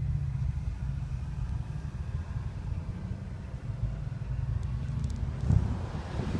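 Moving car's steady low engine and road rumble, swelling slightly near the end.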